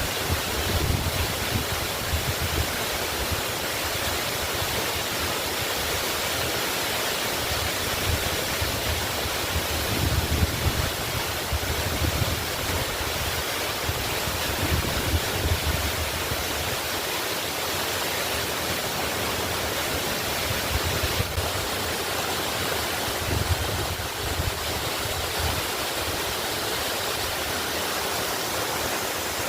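Waterfall pouring steadily: a constant rush of falling water, with a low rumble that swells and fades every few seconds.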